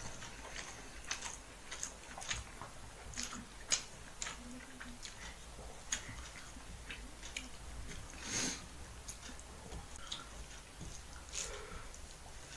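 A person eating rice by hand: mouth-noise chewing and lip smacks, with fingers scraping and mixing rice on a metal plate. Scattered short clicks and smacks, one louder about eight seconds in.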